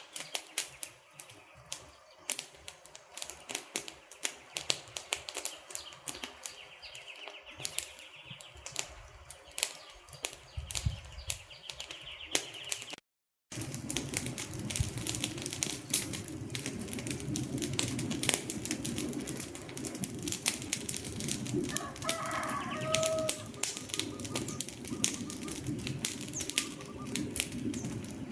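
Wood fire crackling with many sharp pops and snaps. It cuts out briefly about halfway, and after that a fuller, lower rushing of the flames runs under the crackle. A short chirping call sounds about three-quarters of the way through.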